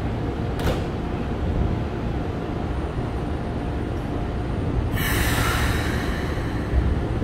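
Keikyu 1000-series commuter train, fitted with a Siemens GTO-VVVF inverter, pulling slowly into a station platform with a steady low rumble. A short hiss comes about five seconds in.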